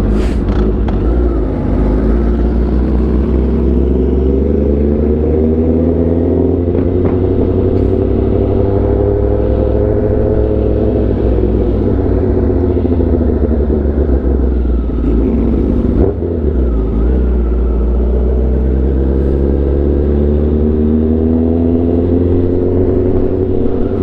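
Sportbike engine running while being ridden, its pitch climbing slowly for several seconds, easing back down, then climbing again near the end, over a steady low rumble.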